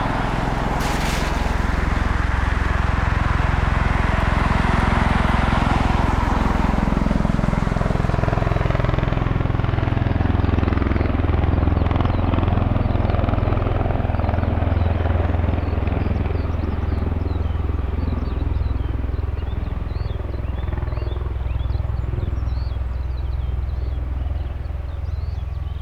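V-22 Osprey tiltrotor's proprotors and turboshaft engines making a deep, steady drone, its pitch sliding down over the first several seconds and a higher rushing noise dying away about nine seconds in. Birds chirp over the low drone from about ten seconds on.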